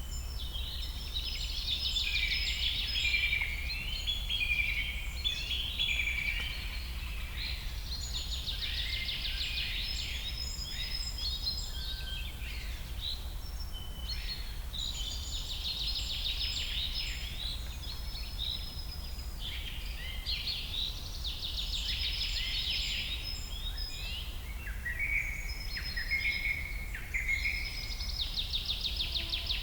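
Forest songbirds singing. One bird repeats a fast, trilled song phrase of about three seconds roughly every six seconds, with shorter thin whistled notes from other birds between the phrases. A steady low rumble lies underneath.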